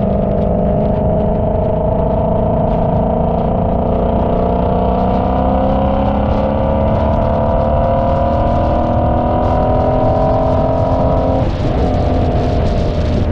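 Car engine pulling under steady load, its pitch climbing slowly for about eleven seconds, then the revs dropping suddenly near the end.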